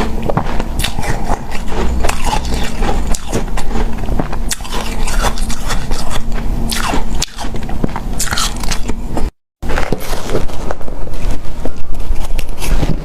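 Close-miked biting and chewing of hard, powdery refrozen ice, a dense run of crunches and crackles. The sound cuts out briefly about nine seconds in, then resumes as quicker, rapid crunching chews.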